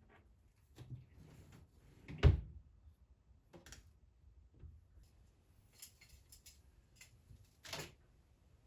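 Several knocks and clunks of things being handled indoors, like drawers or cupboard doors being opened and shut. The loudest is a sharp thud about two seconds in, with a second clear knock near the end and a few light clicks between.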